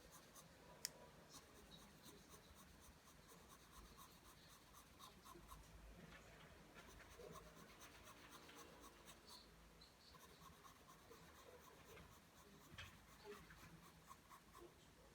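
Pencil drawing lines on paper: faint, quick, repeated scratching strokes, with one sharp tick about a second in.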